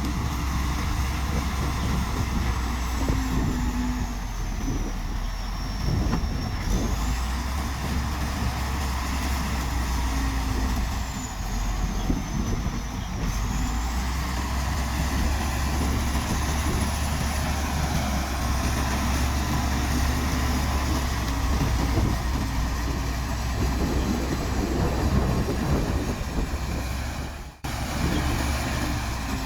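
Heavy diesel earthmoving machinery running steadily, a bulldozer and dump trucks working the fill, with a low engine rumble and a faint wandering high whine. The sound drops out briefly near the end.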